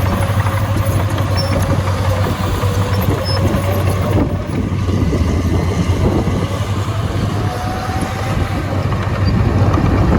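Heavy diesel engine of earthmoving machinery running steadily with a deep hum, with a faint whine above it that slowly wavers in pitch.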